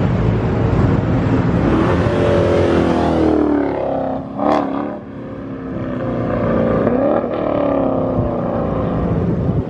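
Mopar muscle car's V8 engine revving hard, its pitch rising and falling, with a sharp crack about four and a half seconds in.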